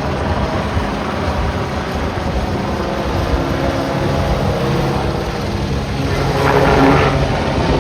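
A motor running steadily under heavy wind rumble on the microphone, with a brief louder pitched sound about six and a half seconds in.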